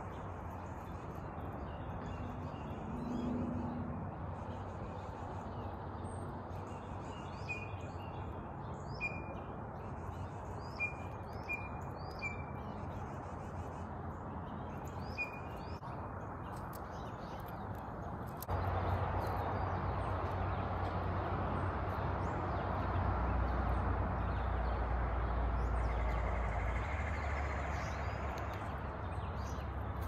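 Small songbirds giving short high chirps, several scattered notes a quarter to halfway through, over a steady outdoor rushing noise. About two-thirds of the way in the rushing noise steps up and stays louder, with a low rumble underneath.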